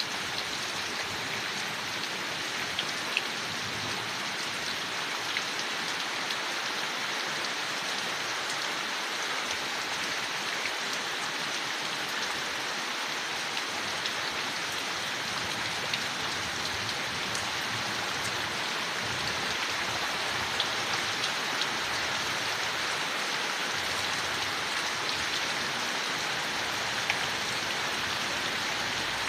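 Steady rain falling on leaves, an even patter with occasional louder single drops.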